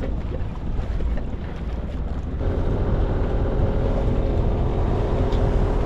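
Sailboat's inboard engine running under way, with wind buffeting the microphone; about two seconds in, a steady engine hum comes through clearly and holds.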